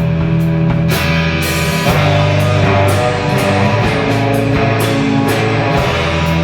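Live indie rock band playing: electric guitars holding sustained chords over bass, with drums and cymbals keeping a steady beat.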